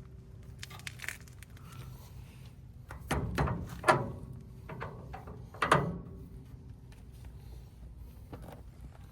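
Scattered thunks and knocks from hand work on a car's front suspension, the loudest about four and six seconds in, over a low steady hum.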